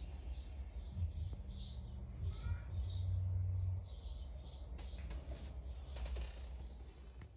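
A small bird chirping over and over, about three short high chirps a second, fading out about four and a half seconds in, over a steady low rumble.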